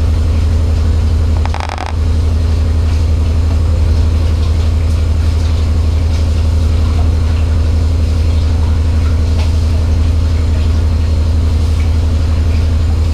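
Washing machine in its spin-dry cycle, the drum spinning at a steady speed with a loud, even low hum. The level dips briefly about one and a half seconds in.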